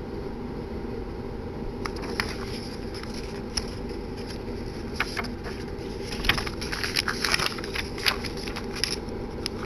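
Packaging being handled during an unboxing: irregular crackles, clicks and light scrapes over a steady background hiss and hum, growing busier about halfway through.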